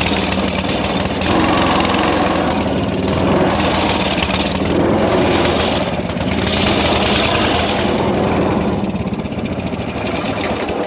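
Predator 212cc single-cylinder four-stroke engine running hard, driving a homemade mini jet boat. It swells and eases a few times and cuts off suddenly at the very end.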